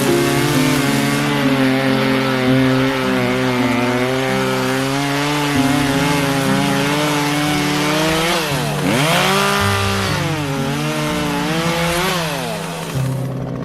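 A chainsaw running loud and steady, its pitch dipping sharply and recovering twice, once just before halfway and once near the end, as it bogs down in a cut.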